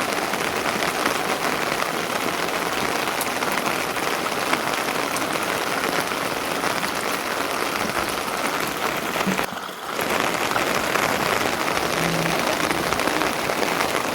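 Steady rain falling, with a brief drop-out about ten seconds in.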